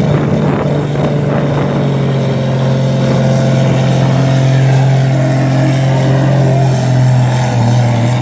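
Tractor engine running hard and steady under heavy load as it drags a weighted pulling sled.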